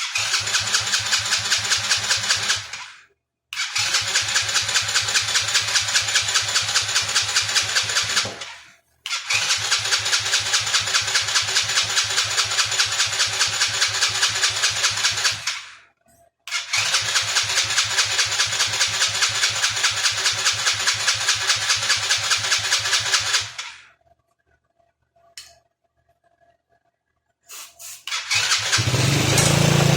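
110cc four-wheeler engine cranked in four long bursts with an even chuffing rhythm, not firing on its freshly cleaned carburetor. Near the end the engine catches and runs, louder and steady.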